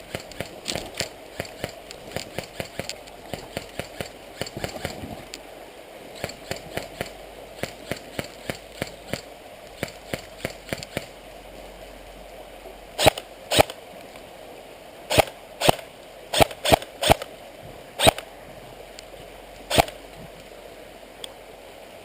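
An airsoft M4 rifle firing single semi-auto shots: about nine sharp cracks in ones and twos over the second half. Before them, a quick run of light crunching footsteps.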